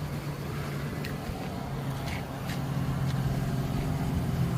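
Pickup truck engine idling with a steady low hum that grows louder near the end, with a few light clicks over it.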